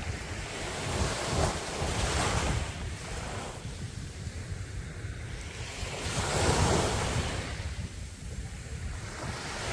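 Sea waves breaking on a beach, two surges of surf about five seconds apart, with a steady rumble of wind on the microphone.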